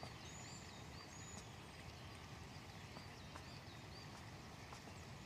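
Faint birdsong: short chirps repeated every fraction of a second, with a few longer, higher whistles, over a low steady hiss.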